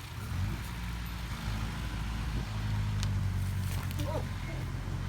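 Diesel engine of heavy earthmoving machinery running, getting louder about half a second in and then holding a steady low pitch.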